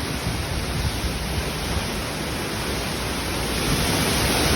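Hurricane-force wind gusts blowing as a steady rush of noise with a heavy low rumble, growing louder near the end.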